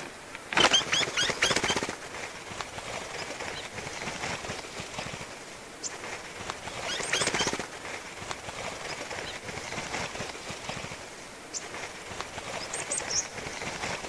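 Wild birds calling: a quick run of high chirping notes about half a second in, another run about seven seconds in, and a few single high notes near the end, over faint continuous background noise.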